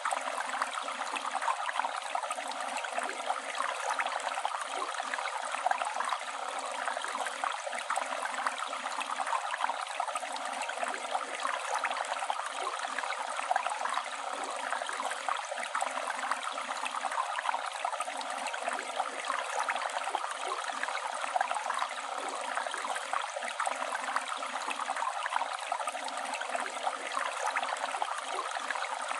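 River water flowing and gurgling: a steady, dense rush of running water.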